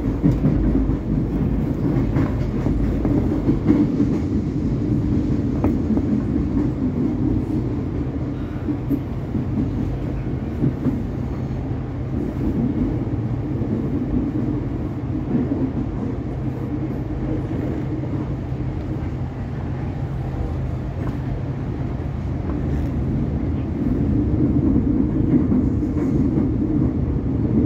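Cabin running noise of an X'trapolis electric train in motion: a steady low rumble from the wheels on the rails and the running gear, with a low hum through the middle stretch and a few faint clicks.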